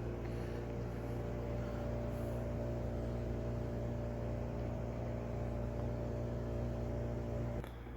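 A steady mechanical hum with a low pitched drone, which drops off suddenly near the end.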